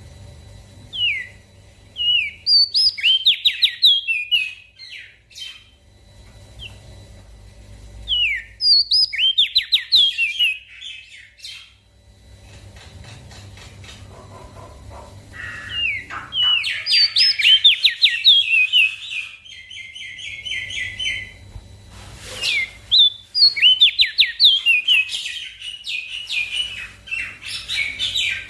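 Small songbird singing in repeated bursts of rapid, high chirping notes and trills, with short pauses between phrases.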